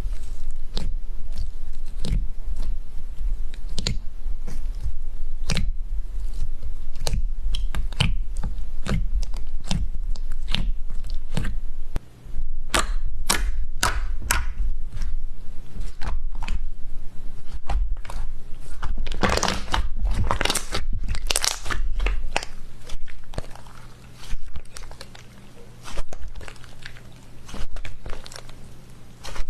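Slime being worked by hand close to the microphone: a dense run of sharp clicks and pops, softer and sparser in the last few seconds.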